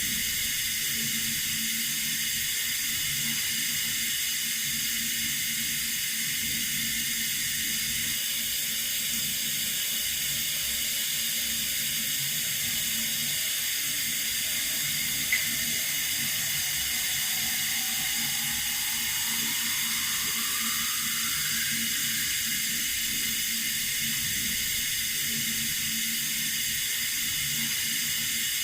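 Running water from a tap, a steady hissing rush with no change in flow. There is one short click about halfway through, and a faint tone that rises slowly.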